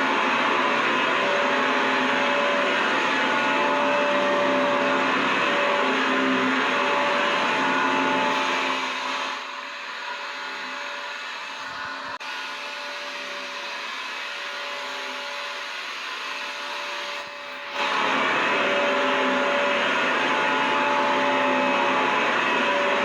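Vacuum cleaner running steadily: a dense rushing noise with a motor whine through it. About nine seconds in the sound fades to a quieter, duller tone, then jumps back to full strength suddenly near eighteen seconds.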